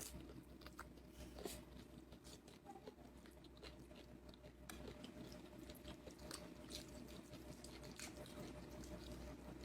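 Faint chewing, with scattered soft clicks from the mouth, of a person eating.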